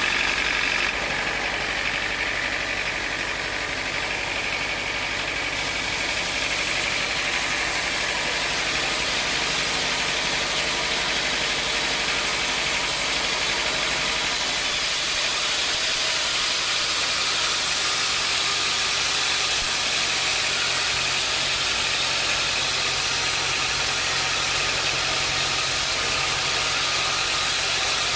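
Sawmill machinery running steadily: a constant engine-like drone with a loud high hiss over it.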